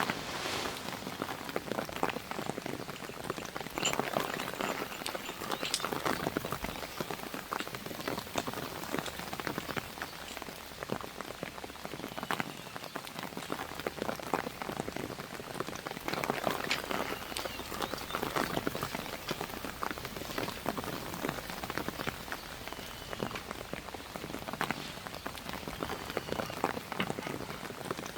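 Steady rain falling, with many separate drops ticking sharply on nearby surfaces throughout.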